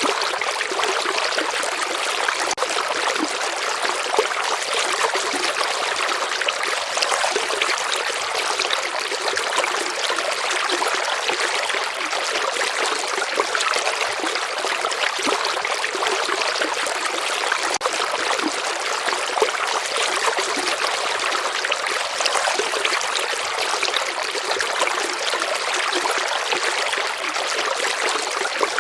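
A stream of water flowing and trickling, a steady even rush with a fine splashing texture.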